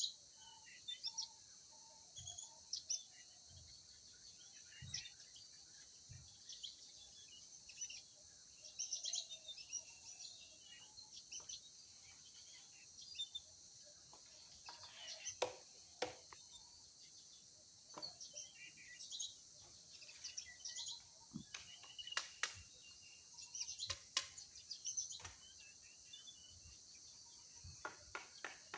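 Forest birds chirping in short scattered calls over a steady high hiss, with occasional sharp snaps or knocks, the loudest near the middle and toward the end.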